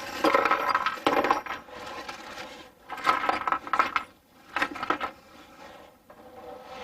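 Small metal screws and hardware clinking and rattling as they are handled, in about five short bursts over the first five seconds, quieter near the end.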